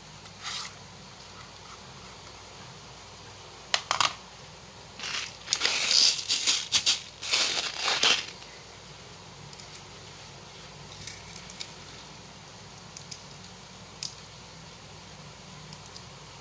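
Handling of a plastic spring-powered toy airsoft pistol: two sharp clicks about four seconds in, then a few seconds of loud clicking and rattling, followed by a few faint ticks.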